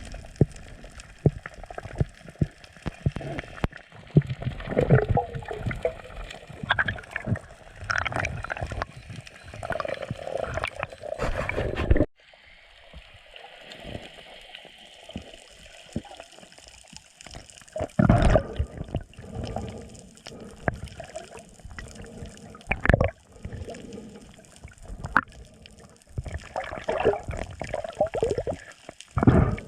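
Water sloshing and gurgling, with irregular splashes and knocks. The sound cuts off abruptly about twelve seconds in, then picks up again in louder bouts.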